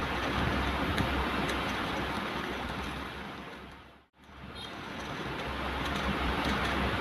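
Ocean waves washing in a steady rush of surf. About four seconds in, the sound fades away to silence for a moment and then fades back in.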